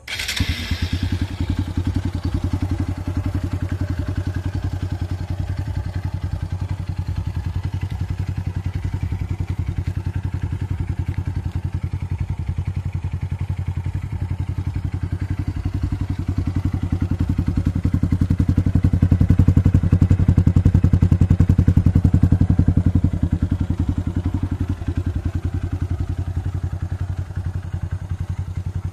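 Hero XPulse 200's single-cylinder engine running through an aftermarket Arrow exhaust, a steady rapid thumping at low revs. It gets louder for a few seconds past the middle, then settles back.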